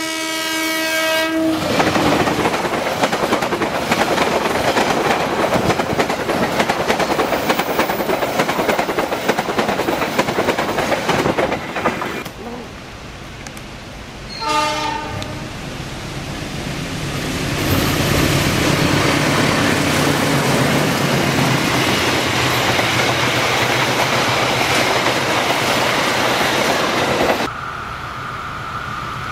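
Diesel locomotives sounding their horns and running past on the rails. A horn stops about a second and a half in, followed by the loud running noise and rail clatter of a train passing. Around halfway there is a shorter horn, then a second train passes and its noise builds before cutting off near the end.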